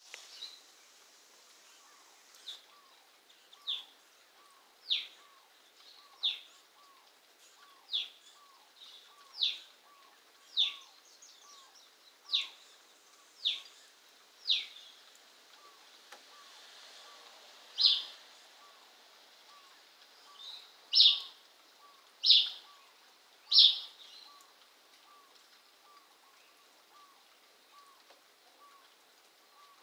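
A pet bird calling over and over, about fifteen short, shrill, downward-sweeping calls roughly a second apart. The calls get loudest in the second half and stop a few seconds before the end.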